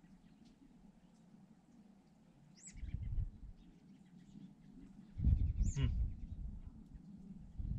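Two short bird calls, each gliding downward, about three seconds apart. Each comes with a brief low rumble.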